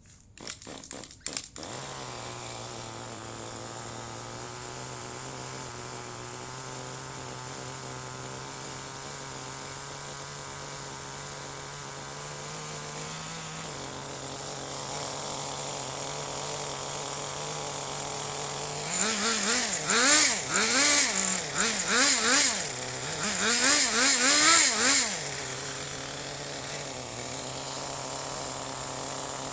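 Small nitro RC buggy engine running on castor-oil fuel: a few sharp pops as it catches, then a steady idle. About two-thirds through it is revved in a string of quick throttle blips, the pitch rising and falling, before settling back to idle.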